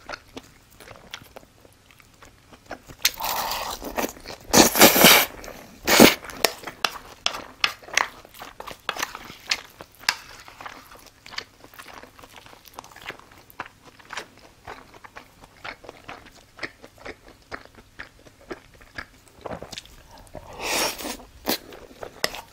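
Close-miked mukbang eating: chewing and wet mouth smacking over a mouthful of rice mixed with gochujang beef tartare, with many small crackles and crunches. There are louder stretches about three to six seconds in and again near the end.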